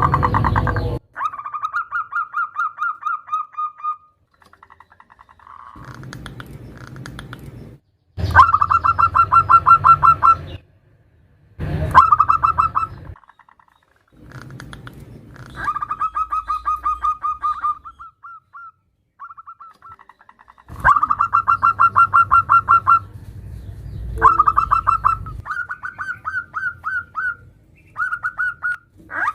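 Zebra dove (perkutut) calls, presented as a female calling to a male. The calls come as repeated one-to-two-second phrases of rapid, trilled cooing notes, with short pauses between phrases. Under several phrases there is a low rumble.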